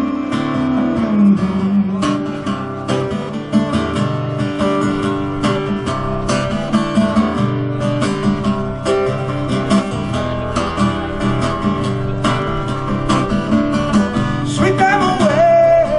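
Acoustic guitar strummed in a steady rhythm during an instrumental break of a live song, with a held note rising in near the end.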